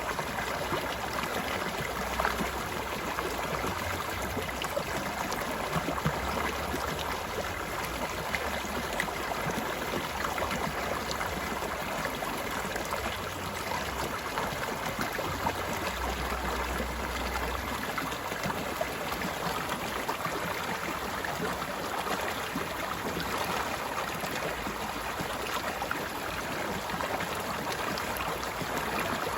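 Stream water flowing steadily in a continuous rushing, splashing hiss, with a faint low rumble that comes and goes beneath it.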